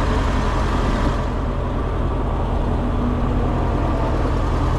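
Heavy truck's diesel engine running steadily with a low, even chugging, powering the lift. A higher hiss above it fades out about a second in and comes back near the end.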